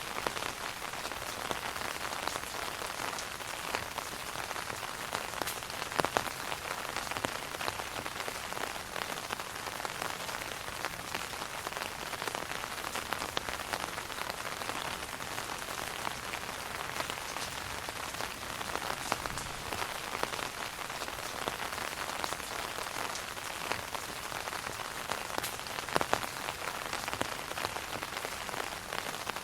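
Steady rain falling on an umbrella canopy, a dense even hiss of many separate drop hits, with a few louder single hits about six seconds in and near the end.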